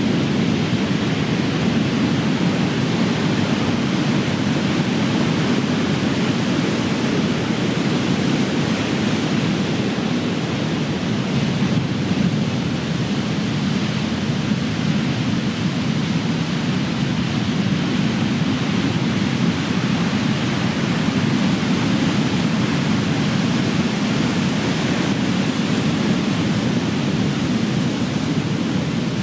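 Ocean surf: big waves breaking, heard as a continuous, even rush of low noise with no separate crashes standing out.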